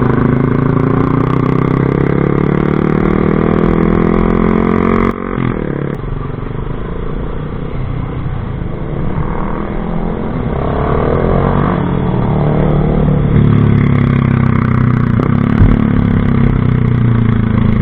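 Motorcycle engine running through a loud exhaust pipe, with a steady low note that drops suddenly about five seconds in, then rises and falls as it is revved and settles louder near the end.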